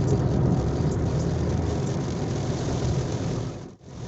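Car running on the road, heard from inside the cabin: a steady low engine and road rumble with a hiss above it. The sound drops out briefly near the end.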